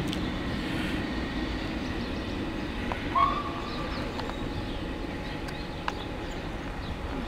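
Railway station sound with trains: a steady low rumble, broken by one short high tone about three seconds in and a single sharp click near six seconds.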